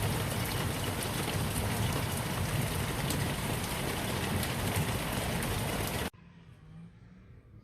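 Heavy rain falling in a steady hiss with fine pattering drops, cutting off abruptly about six seconds in.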